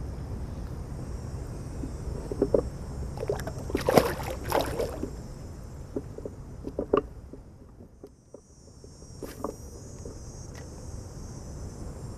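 Knocks and handling noises on a fishing kayak: a cluster of sharp knocks with a louder noisy burst about four seconds in, a few more knocks a little later, over a low wind rumble on the microphone and a steady high insect drone.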